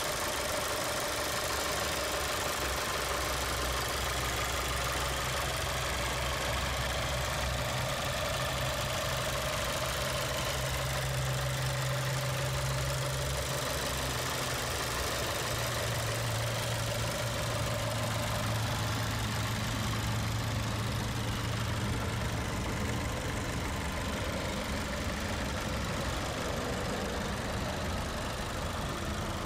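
A 2015 Skoda Octavia's 1.4-litre turbocharged inline-four idling steadily.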